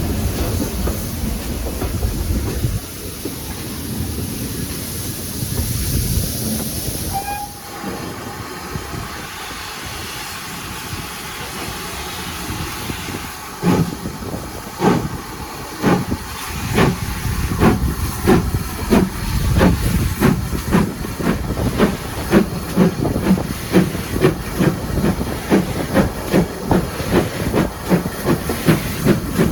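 Steam locomotive hissing steam for several seconds, then starting away: its exhaust beats begin slowly and quicken steadily as it gathers speed.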